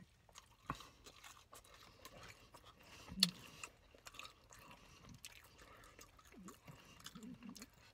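A person chewing french fries close to the microphone: quiet, with many small mouth clicks and crunches and one louder click about three seconds in.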